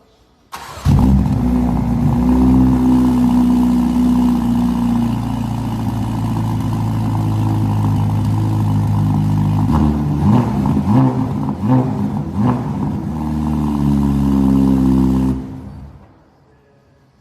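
Ferrari twin-turbo V8 with a straight-piped exhaust idling, then revved in several quick blips about ten seconds in, the pitch rising and falling with each one. It settles back to idle and fades out shortly before the end.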